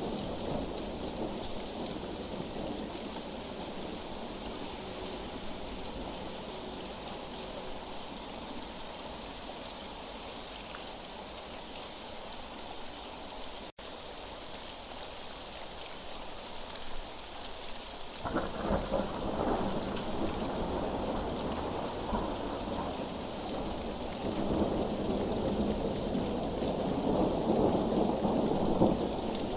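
Steady rain with rolling thunder. The thunder swells about two-thirds of the way through and again near the end, and the rain cuts out for a split second near the middle.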